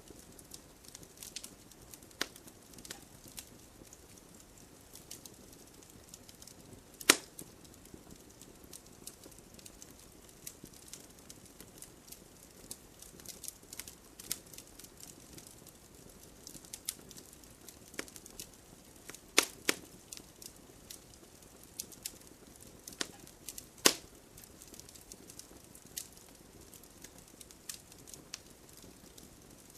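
Wood fire crackling, with frequent small sharp pops over a low hiss and a few louder snaps about 7, 19 and 24 seconds in.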